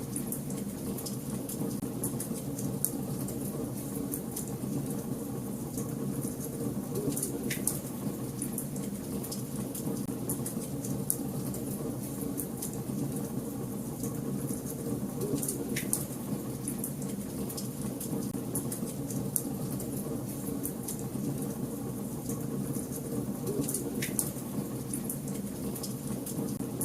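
Wood fire burning in a fireplace: a steady low rush of flame with constant small crackles and three louder pops spaced evenly through.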